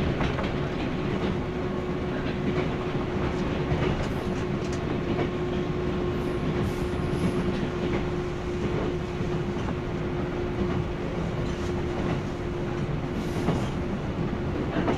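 JNR 165 series electric multiple unit running at speed, heard from inside a motor car: a continuous rumble of wheels on rail with a steady whine that fades near the end.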